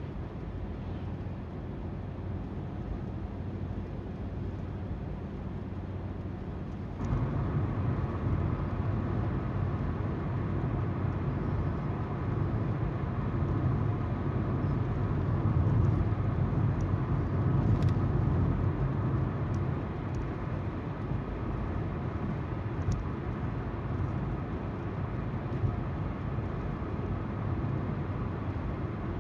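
Car driving on the road, heard from the cabin: steady tyre noise on the road surface under the hum of the engine. About seven seconds in the noise suddenly gets louder and stays up, with a few faint ticks later on.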